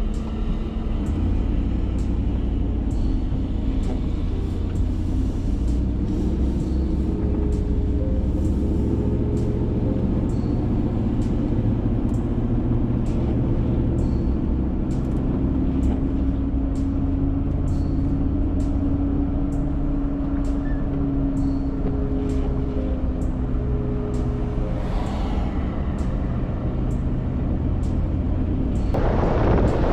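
A motor vehicle driving: a steady low rumble with a slowly wavering drone throughout. Near the end a rush of wind noise comes in.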